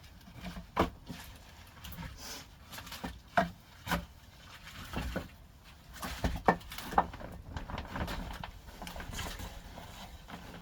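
Split firewood being handled and stacked on a rack: irregular wooden knocks and clunks, with rubbing and scraping between them.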